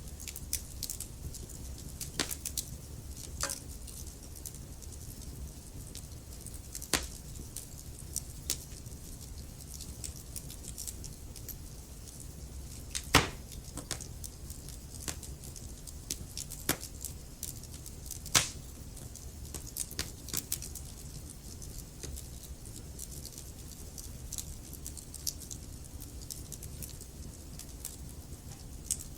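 Wood fire crackling in a fireplace: a low steady rumble of flame with irregular sharp pops and snaps from the burning logs, a louder pop about 13 seconds in and another about 18 seconds in.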